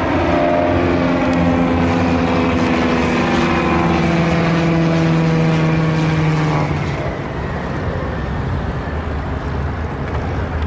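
Propeller plane's piston engine running loud and steady, its pitch drifting slightly lower, then cutting off abruptly about two-thirds of the way through, leaving a quieter steady rumble.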